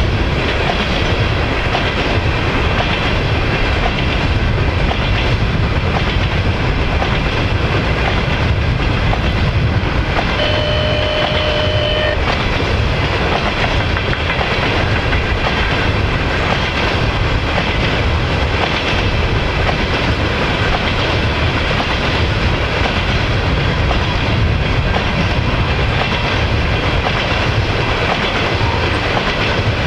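Freight train of tank cars rolling past, a steady low rumble of steel wheels on rail. A brief thin steady tone sounds about ten seconds in.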